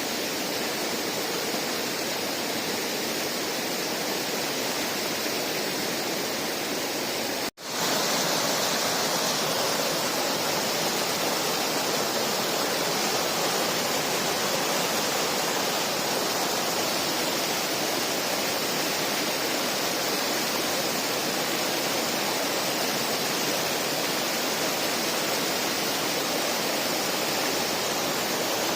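Steady rush of the Dades river's flowing water. A sudden drop-out about seven and a half seconds in, after which the rush is a little louder and brighter.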